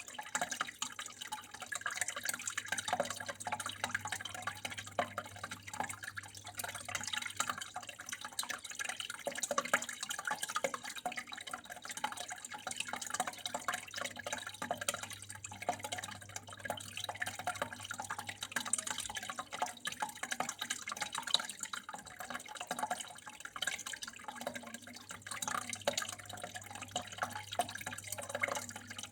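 Water running and trickling steadily, with a constant patter of small drips and splashes over a faint low hum.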